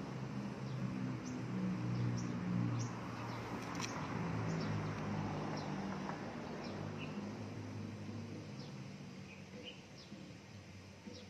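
Small birds chirping over and over, short high chirps that drop in pitch, roughly one every half second to second, over outdoor background noise. A low droning hum sits underneath, loudest in the first half and fading toward the end.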